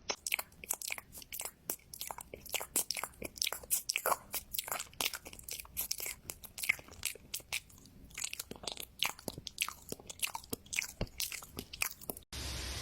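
An animal chewing crunchy food: many quick, irregular crunches close to the microphone. The crunching stops near the end and a steady hiss takes over.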